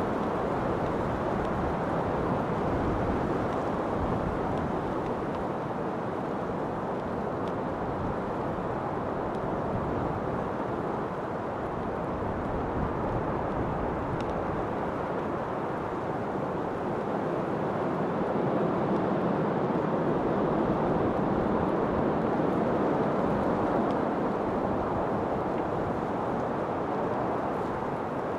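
Steady rushing wind, a deep even blowing that swells a little about two-thirds of the way through.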